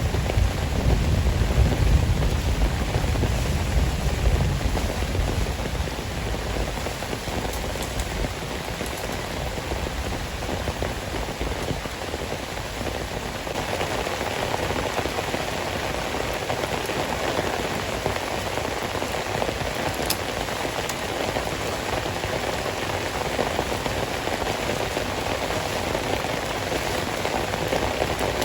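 Heavy rain falling steadily, with the low rumble of thunder dying away over the first few seconds. About halfway through, the rain grows heavier.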